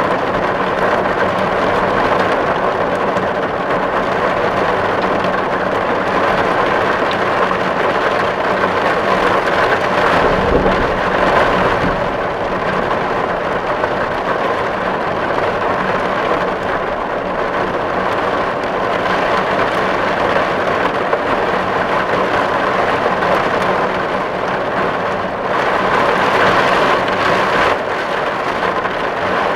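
Steady heavy rain drumming on a tin roof, with a brief low rumble about a third of the way in.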